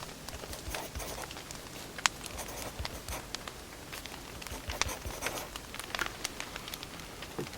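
Firewood fire crackling: irregular sharp pops and snaps over a soft steady hiss, with one louder pop about two seconds in.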